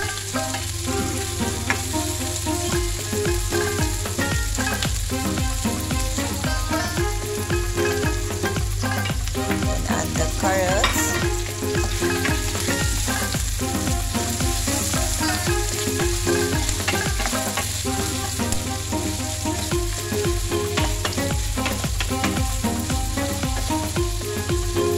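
Onions and garlic sizzling in hot oil in a stainless steel frying pan, stirred with a wooden spatula. About eleven seconds in there is a brief louder surge as carrot sticks go into the pan.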